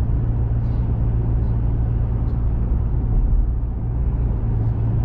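Steady drone of a small pickup truck's engine and tyre noise, heard from inside the cab while it drives along at an even speed.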